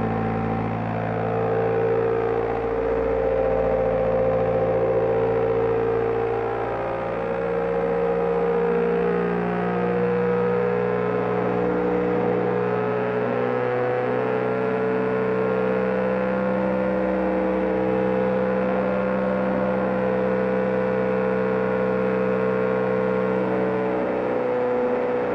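BMW GS Adventure motorcycle engine running steadily at road speed, its note dipping briefly several times.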